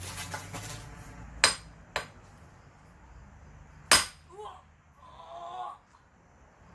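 Three sharp, ringing metallic strikes on firewood being split. Two come close together in the first two seconds, and the loudest comes about four seconds in. Brief faint voice sounds follow the last strike.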